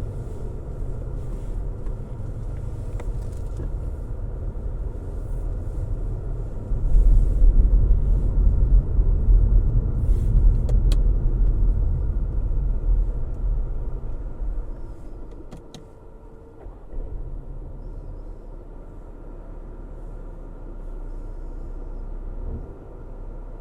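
Car driving: a low engine hum and road rumble that grows louder about seven seconds in, then falls away to a quieter hum after about fourteen seconds.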